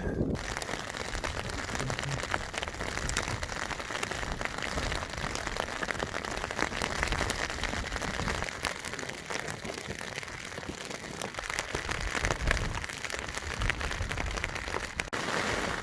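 Rain falling steadily, with a dense patter of drops striking close by, and gusty wind rumbling on the microphone underneath.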